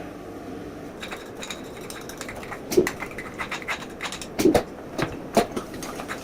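A cooking utensil clattering and knocking against a pan while fried rice is stir-fried: a quick run of light clicks with several louder knocks in the second half.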